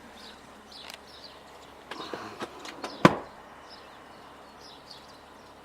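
A single sharp knock about three seconds in, over a faint steady background hiss.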